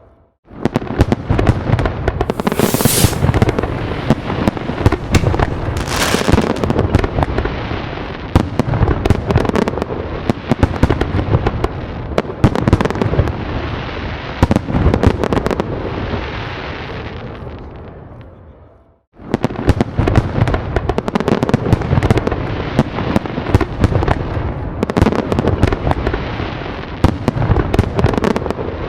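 Fireworks going off in a dense barrage of bangs and crackles. The barrage fades away about two-thirds of the way through, then starts again after a brief moment of silence.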